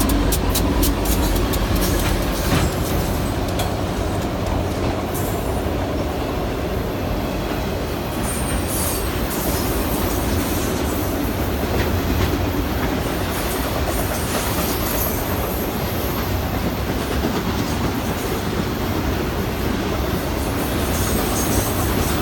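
A Union Pacific train rolling past, with a steady heavy rumble and scattered sharp clicks from the wheels on the track.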